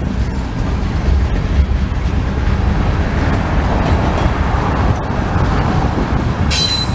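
Railroad freight cars rolling past: a steady low rumble with a few faint wheel clicks, and a brief high-pitched wheel squeal near the end.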